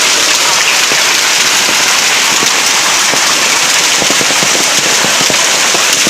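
Heavy rain falling steadily, a dense hiss dotted with many sharp separate drop strikes.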